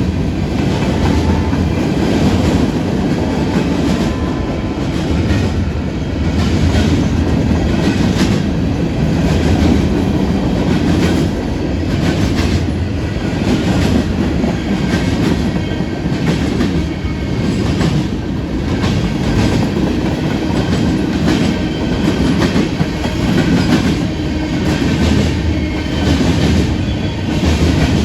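Freight train cars rolling past at close range: a steady rumble of steel wheels on rail with frequent clicks as the wheels pass over rail joints.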